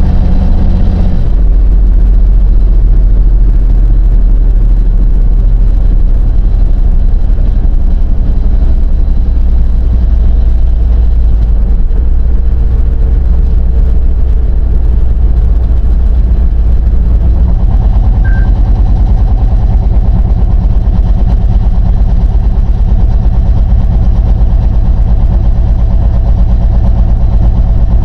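Steady low drone of a 2000 GMC pickup truck's engine and road noise while driving, heard from inside the cab, with a shift in engine pitch about a second in and again a little past halfway.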